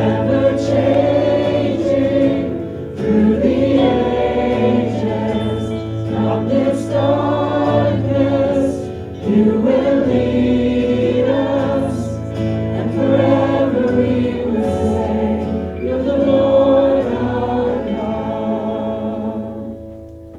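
A group of voices singing a contemporary worship song together with instrumental backing, trailing off as the song ends.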